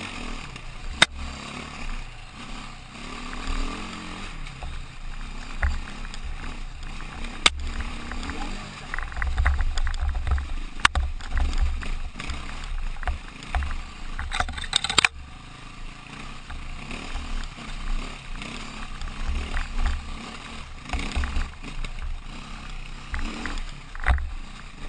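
KTM motorcycle on the move: wind buffeting the microphone in a heavy low rumble over the engine and road noise, with a handful of sharp knocks or clicks scattered through.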